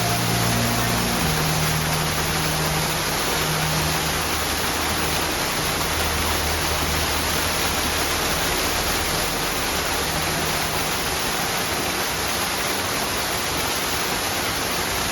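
Small waterfall: water rushing steadily and evenly.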